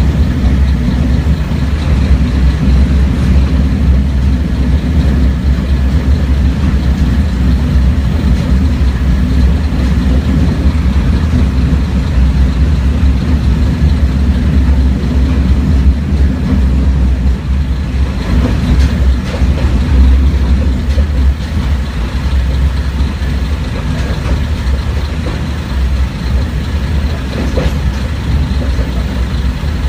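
Kashima Rinkai Railway 6000-series diesel railcar under way, heard inside the passenger cabin: a steady low engine drone mixed with wheel-on-rail running noise. It eases slightly in the last few seconds.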